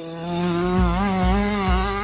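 Two-stroke 85 cc motocross bike engine buzzing at high, fairly steady revs, its pitch wavering slightly. Low thumps join in from about half a second in.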